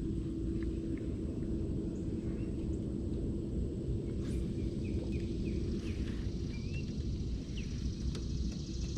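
Outdoor riverside ambience: a steady low rumble with a faint constant hum, and a few short bird chirps about five to seven seconds in.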